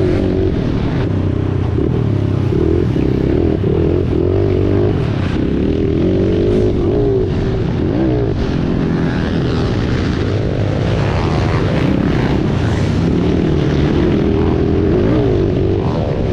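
Dirt bike engine running loud, its pitch rising and falling over and over as it revs up and backs off.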